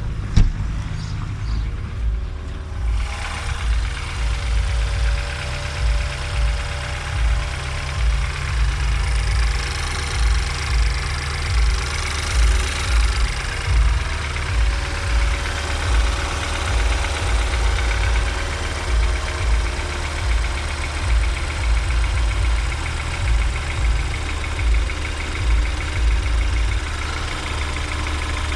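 BMW N20 2.0-litre turbocharged four-cylinder running on a cold start. A buzzing comes in about three seconds in over the engine's low rhythmic pulsing, which the owner suspects comes from the oil pump or balance shaft.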